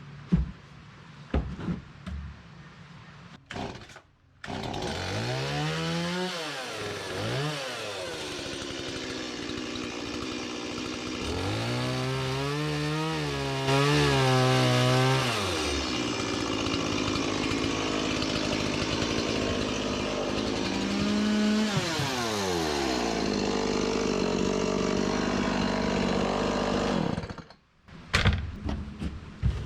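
A few knocks, then about four seconds in a saw's small gasoline engine starts running hard, its pitch rising and sagging several times as it takes load in the cut. It cuts off abruptly near the end.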